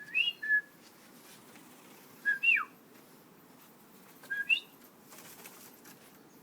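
A person whistling the same short call four times, about two seconds apart, to coax tui to a feeder. Each call is a brief level note, then a higher note that falls away steeply.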